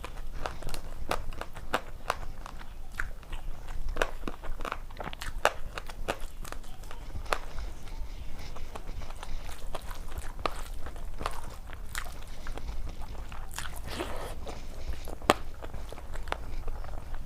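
A person eating, biting and chewing crisp food with many irregular crunches, over a low steady hum.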